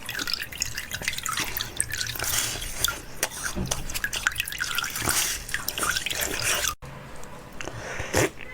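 Water splashing and dripping, with many small clicks and splashes, broken off sharply for an instant about two-thirds of the way through.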